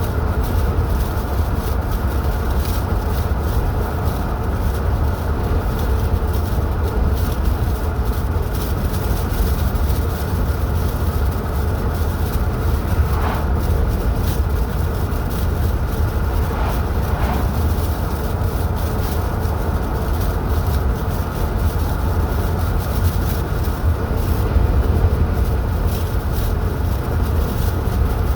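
Steady low rumble of a car driving along a highway: tyre, road and engine noise that stays even throughout.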